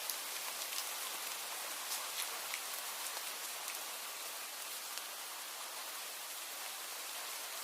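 Steady rain falling, a dense even hiss with scattered individual drops ticking sharply, more of them in the first few seconds.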